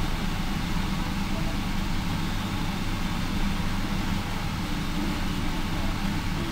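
Steady low rumble and hum of the Indian Pacific passenger train, heard at close range as its stainless-steel carriages creep slowly past.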